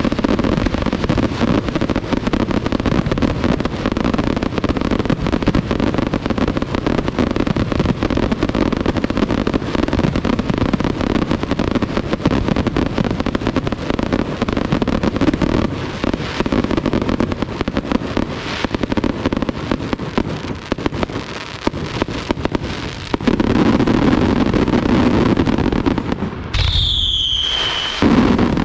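A Pirotecnica Itria fireworks barrage: a dense, continuous run of bangs and crackle with hardly a gap. Near the end a whistling firework sounds, falling in pitch for about a second and a half.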